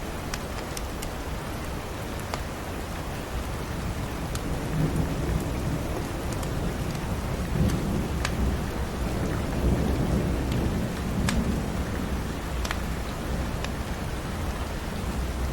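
Steady rain, with a low rumble of thunder swelling up in the middle and dying back. Sharp crackles and pops of a wood fire in a fireplace sound every second or two.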